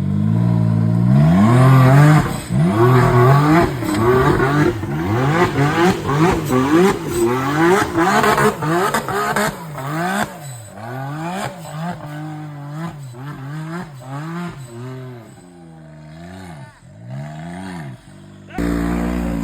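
Small dirt bike engine revving up and down over and over, its pitch climbing and dropping about once a second for the first half, then in slower, quieter swells. Near the end it cuts abruptly to a steady engine tone.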